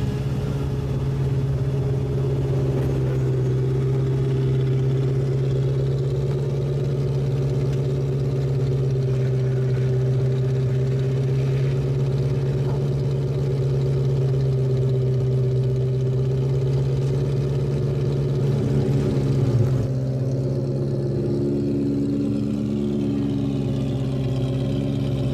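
Ferrari engine idling steadily through its exhaust, with a brief louder moment about three-quarters of the way through.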